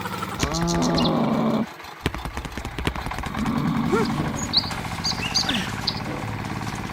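A large animal's low, drawn-out call lasting over a second, then a shorter call about a second later, followed by a few high bird chirps.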